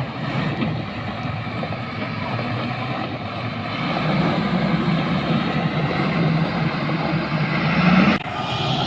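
Engine of heavy road-construction machinery running steadily, growing louder about halfway through, with a sudden change shortly before the end.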